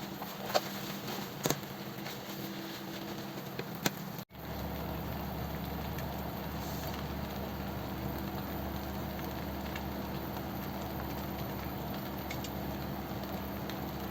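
Food sizzling in a frying pan with a steady hum, a few light clicks of utensils in the first few seconds; the sound cuts briefly about four seconds in and the sizzling carries on over a stronger low hum.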